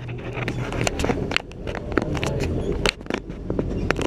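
Branches and brush crackling and snapping against a tour boat squeezing through an overgrown, untrimmed bayou, over the steady low hum of the boat's motor.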